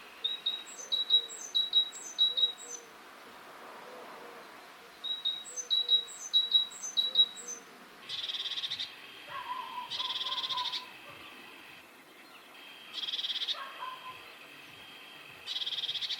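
A great tit singing a repeated two-note phrase in two runs of about five phrases each. Then, about eight seconds in, a blue tit gives short buzzy churring calls, four times.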